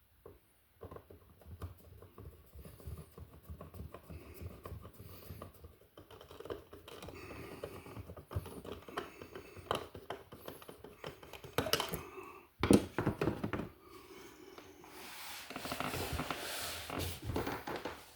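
Irregular clicks, taps and scraping of hands, a screwdriver and a wall receptacle being handled as the receptacle is fitted into its electrical box, with a few louder knocks about twelve seconds in.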